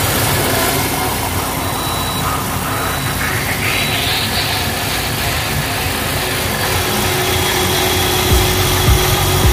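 Supercharged 6.2-litre LSA V8 of a Camaro ZL1 idling with the hood open, under a steady rushing noise. A few low thumps come near the end.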